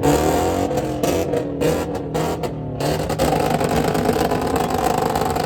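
A car's engine running loud with revving, its pitch dipping and wavering in the first second or so and then holding steady.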